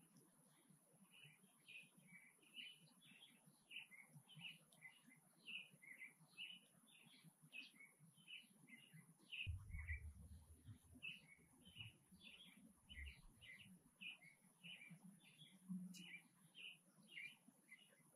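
Faint bird chirping: a steady run of short, high chirps, about three a second, with a low rumble from about nine to thirteen seconds in.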